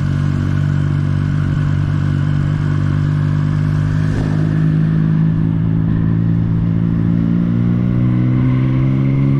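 Motorcycle engine running steadily on the move, its note slowly climbing in pitch as it picks up speed.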